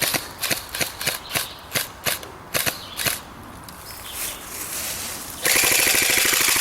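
Airsoft guns firing: about ten sharp single shots, roughly three a second, over the first three seconds. Then about five and a half seconds in comes a loud, continuous full-auto burst with a fast, even rattle.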